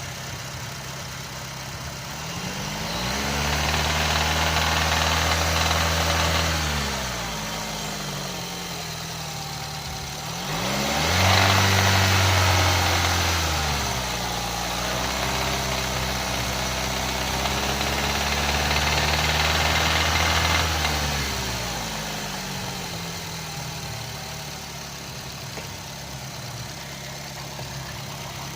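Car engine idling, then revved three times, each rev held for a few seconds before dropping back to idle. A noise comes in when the throttle is opened, in an engine whose oil filter has turned up metal.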